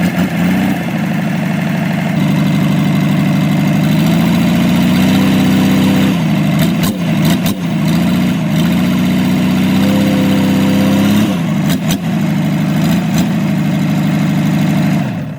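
Rebuilt Hyundai six-cylinder diesel engine running on test, its speed picking up about two seconds in and then dipping and recovering twice, with a few sharp clicks during the dips.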